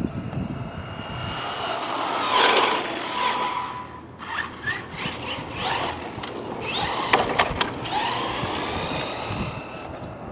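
Brushless electric motor of a 1/10-scale RC truck on a Hobbywing power system, whining up and down in pitch several times as the truck accelerates and slows on a speed run, over a steady hiss.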